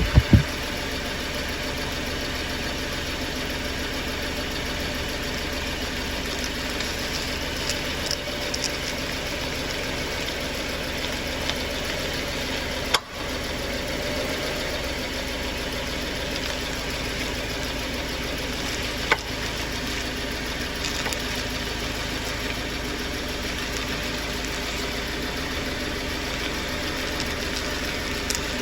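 Subaru XV's flat-four engine idling steadily, heard from inside the cabin, with a few sharp clacks from the electric power steering as the wheel is turned to the left. The clack comes only on left turns and seems to come from high up in the steering column.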